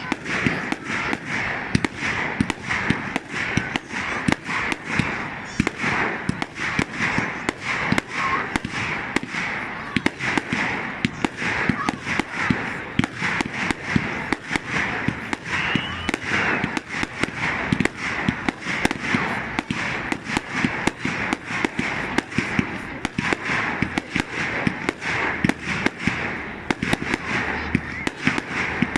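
Fireworks going off without a pause: a dense run of bangs and crackles, several a second.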